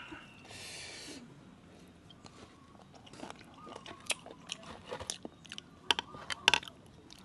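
Close-up eating of a spicy Thai seafood som tam: irregular crisp crunching bites and wet chewing, with a short breathy hiss about half a second in.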